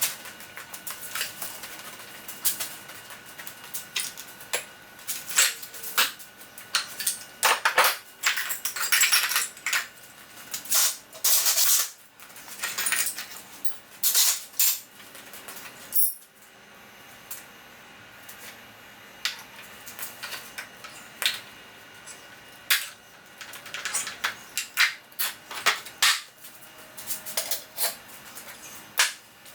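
Irregular metallic clinks, clatter and knocks from metal parts and tools being handled, with a couple of longer scraping noises. This fits taking apart the old metal-and-wood anvil stand.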